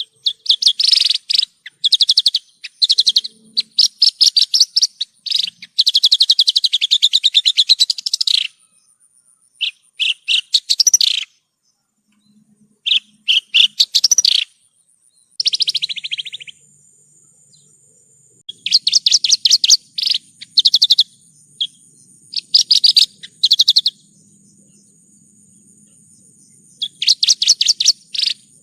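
A Javan bush lark (branjangan) sings in phrases of fast, rapid trills and chirps, separated by short pauses. A thin, steady, high-pitched tone runs under part of the song.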